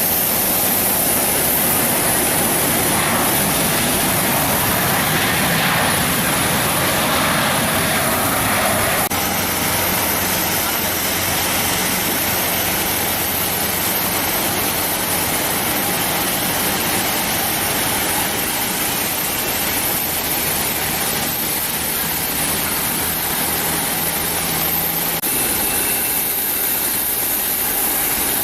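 Jet airliner engines running at low power: first a Boeing 737-900ER's, then, after a cut about nine seconds in, an Airbus A320's engines with a steady low hum as it lines up for take-off. The sound changes again near the end.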